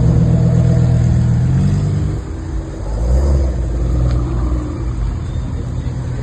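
Car engine running loudly at a steady pitch, its note dropping about two seconds in and settling into a lower rumble.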